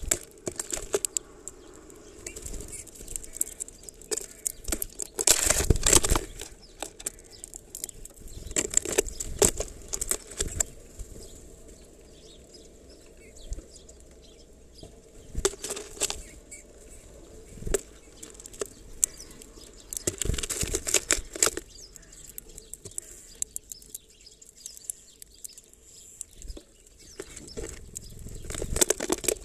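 Small birds at a plastic-bottle feeder filled with black sunflower seeds: bursts of wing flutter and rapid tapping and scratching on the plastic, coming every few seconds, the loudest about six seconds in.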